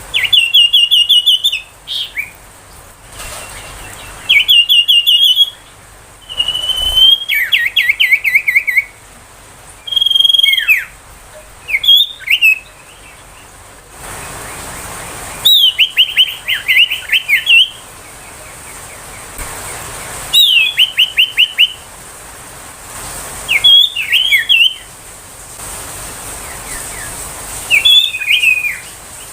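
Common iora singing: a series of short, rapid-fire phrases of quick repeated whistled notes and trills, each lasting about a second, separated by brief pauses.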